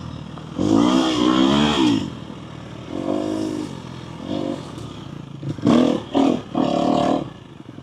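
Dirt bike engine revving in repeated surges as the throttle is opened and closed on a rough trail, with a quick run of short throttle blips near the end.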